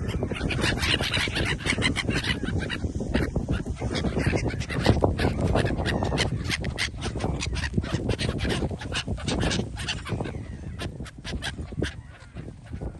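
Geese and ducks honking and quacking, with many sharp clicks over a steady low rumble of noise.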